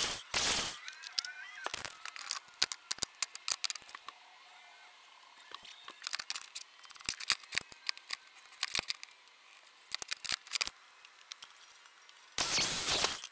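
Time-lapse-accelerated workshop sound: a miter saw's blade noise in a short burst at the start and again near the end as it cuts a hardwood board. In between, rapid clicks and clacks of wooden strips being handled and knocked together.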